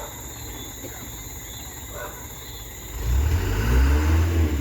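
Night crickets chirring steadily, then about three seconds in a heavy truck's engine rises to a loud low rumble and revs as the driver tries to power the stuck truck out of the gateway.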